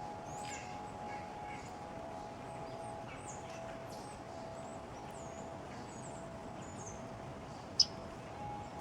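Small songbirds at a backyard feeder giving scattered short, high chirps and call notes, with one sharp, much louder chip close by near the end. A faint steady hum runs underneath.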